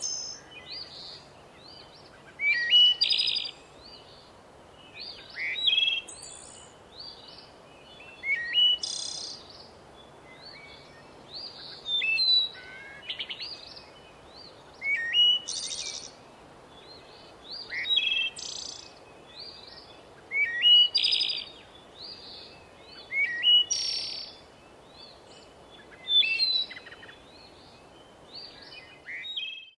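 A songbird singing the same short, sweeping phrase over and over, about once every three seconds, with fainter chirps in between.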